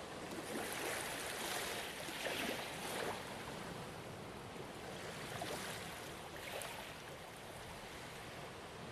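Gentle ocean waves washing onto a shore, in soft swells of hiss during the first three seconds and again a little past halfway, easing to a steady wash near the end.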